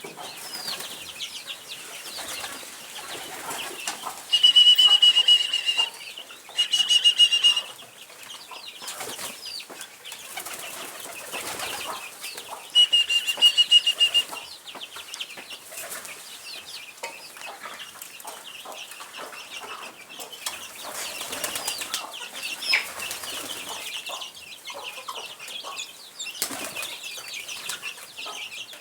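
Pigeons' wings flapping hard in three loud bursts, about four, seven and thirteen seconds in, each with a high whistle, over quieter scattered flutters and clicks.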